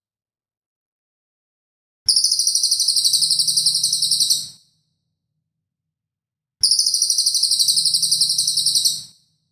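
Songbird's rapid, high-pitched trilled call, the 'tembakan' (shooting) burst used in masteran bird-training tracks, heard twice, each burst about two and a half seconds long with silence between.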